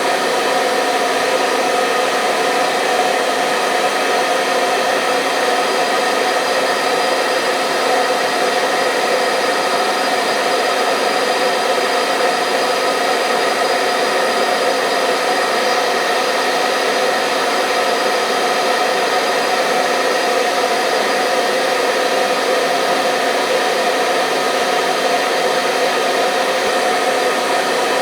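Hair dryer running steadily: a continuous even rush of blown air with a motor hum, unchanging throughout.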